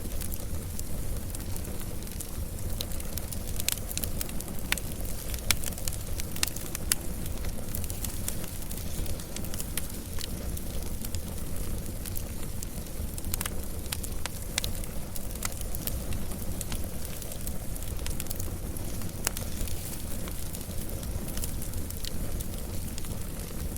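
Wood fire burning, with a steady low rumble of flame and frequent sharp, irregular crackles and pops.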